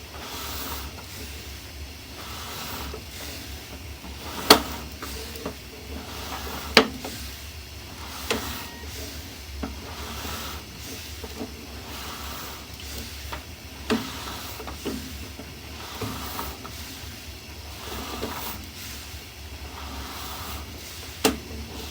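Sewer inspection camera on its push rod moving through a sewer main: a steady hiss with sharp clicks and knocks at irregular intervals, the two loudest about four and a half and seven seconds in.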